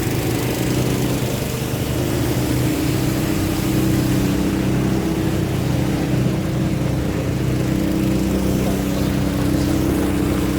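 Small engine running steadily at a constant speed, its pitch stepping up slightly about two and a half seconds in.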